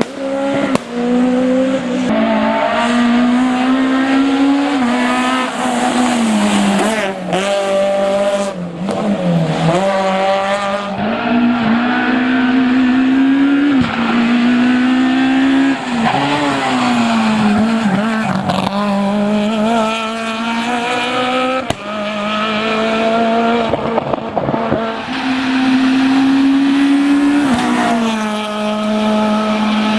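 Citroën Saxo Kit Car rally car's four-cylinder engine revving high under hard driving. The pitch climbs and drops again and again as it accelerates, shifts and lifts, with a few sudden breaks between passes.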